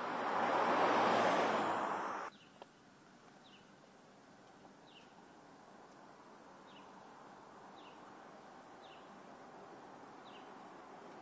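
A loud rushing noise swells and cuts off abruptly about two seconds in. Then a small bird gives short, high, falling chirps, about seven of them a second or so apart, over a faint steady background.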